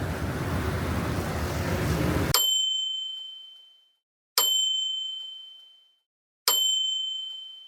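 Steady background noise that cuts off abruptly, then three single bell dings about two seconds apart against dead silence. Each ding rings high and clear and fades away.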